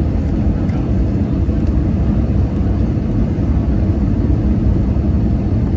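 Steady low rumble inside an Airbus A320-200 passenger cabin on approach to landing: engine and airflow noise, with a few faint ticks.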